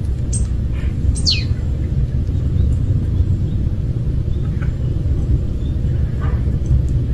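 Steady low rumble outdoors, with a few short, high bird chirps about a second in, one sweeping downward, and fainter chirps later on.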